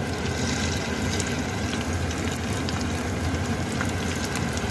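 Battered chicken pieces frying in hot oil, a steady sizzle with a few sharp pops.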